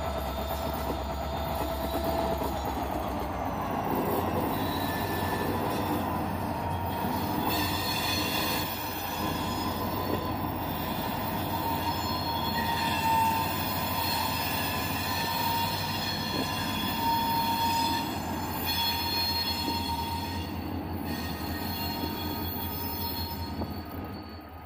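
Train rolling past with its wheels squealing against the rails: thin high squeals that come and go over a steady low rumble.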